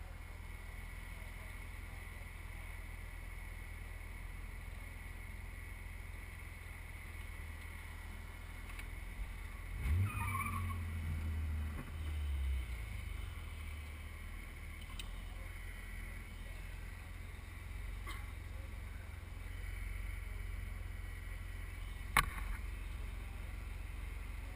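Car engine idling, heard from inside the cabin as a steady low hum, with a louder surge of engine noise about ten seconds in that lasts a couple of seconds. A single sharp click near the end.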